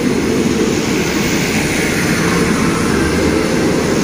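Passenger coaches of an express train rolling past along the platform: a steady rumble of steel wheels on the rails.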